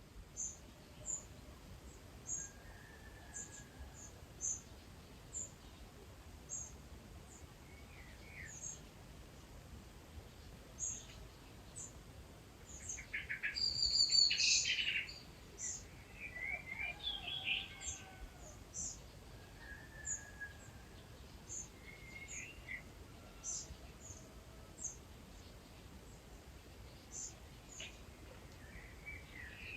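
Dawn chorus of several wild birds. A thin, very high note repeats about once a second throughout, a louder trilled song comes about halfway through, and shorter warbling phrases from other birds are scattered around it.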